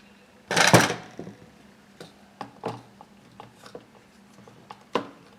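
Parts of a chainsaw being handled and a cover fitted onto its body: one loud knock about half a second in, then a series of light clicks and taps.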